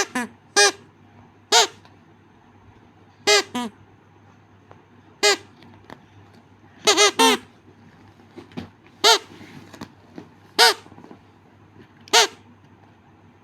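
Pet parrot calling in about a dozen short, high, arching squawks at irregular intervals, with a quick run of three about halfway through.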